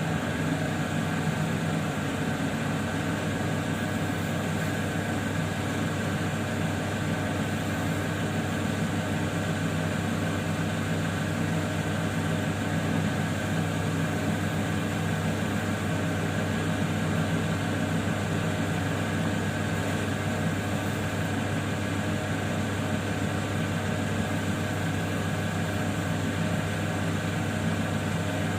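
Lapidary grinding wheel's electric motor running with a steady low hum while an opal is cut by hand.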